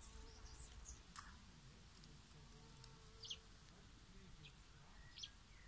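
Near silence with a handful of faint, short bird chirps scattered through it.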